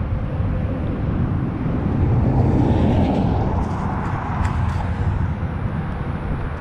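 Steady traffic noise from the nearby interstate mixed with wind rumbling on the microphone, swelling louder about two to four seconds in.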